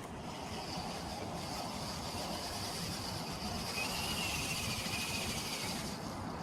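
Steady rushing noise of wind and water around a kayak on a lake, with a faint high-pitched whine running through it.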